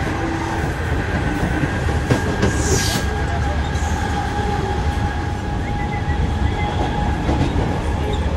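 Mumbai suburban local train running, heard from inside the carriage: a steady low rumble of wheels on track with a steady high tone over it. A brief hiss comes about two and a half seconds in.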